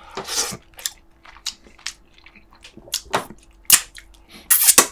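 Close-miked eating sounds from pork back ribs braised with kimchi: a run of sharp, wet lip smacks and sucks with some chewing, about eight in all and loudest near the end.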